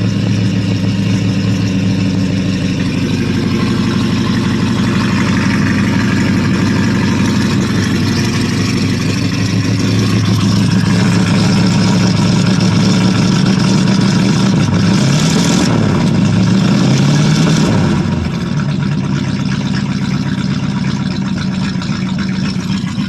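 1985 Chevy Suburban's V8 running on its choke just after a cold start, having sat for a month, through a straight-pipe exhaust. The engine speed rises and falls a couple of times past the middle, then settles back slightly quieter.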